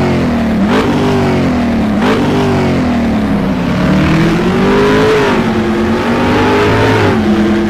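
Sport motorcycle engine revving: two quick throttle blips, about a second and two seconds in, then held at a steadier speed that rises and falls gently.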